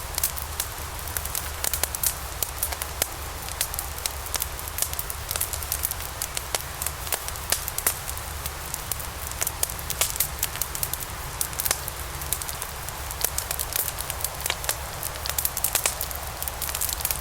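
Wood logs burning in a fireplace, with frequent sharp crackles and pops over a steady low rumble of the flames.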